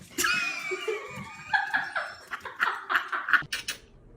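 A long, high call that falls slowly in pitch, followed by a run of short, rapid vocal bursts about four a second, like yelping or laughter.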